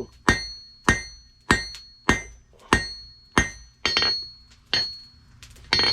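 Hand hammer blows on hot spring steel against an anvil, drawing the bar down to a square taper: a steady rhythm of about one and a half blows a second, each followed by a clear metallic ring from the anvil. The blows space out near the end.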